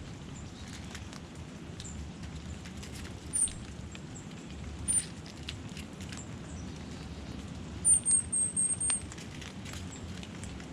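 Steady rain pattering with scattered drips, with short high-pitched bird chirps: one about three seconds in, another about five seconds in, then a quick run of about six near the end.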